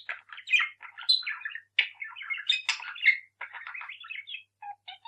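Pet parrot chattering: a quick, unbroken run of short chirps and squawks.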